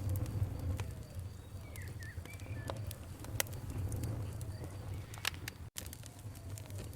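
Campfire crackling: irregular sharp pops and snaps over a steady low rumble of flames, with a few short bird chirps about two seconds in. The sound cuts out for an instant a little before the end.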